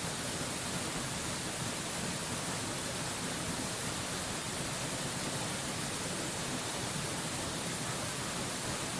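Waterfall's rushing water heard as a steady, unchanging hiss, brightest in the high end, with no splashes or other events standing out.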